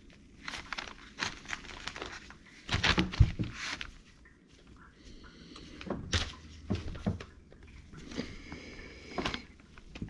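Hand tools working a metal clamp off a CV-axle boot: irregular clicks, knocks and scraping of metal on metal, with two short squeaks, about five seconds in and again near the end.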